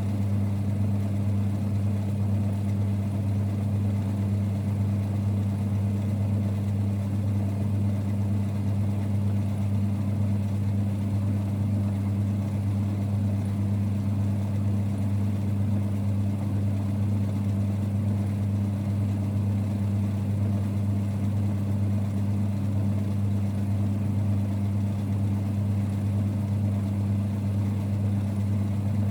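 1946 Boxford lathe running steadily, a low, even hum with no change in speed.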